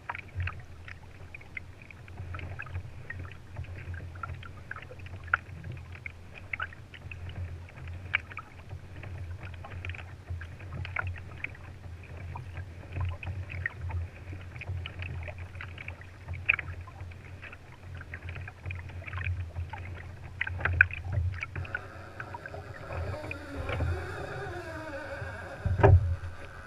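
Water lapping and splashing against a kayak's hull, with a steady low rumble and many small irregular clicks and knocks. There are heavier knocks near the end.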